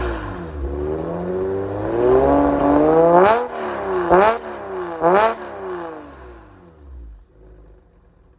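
Porsche 996 flat-six revving through an S66 variable-valve muffler: a few revs that rise and fall, then three sharp, quick throttle blips about three, four and five seconds in. After the blips the engine note drops and fades away.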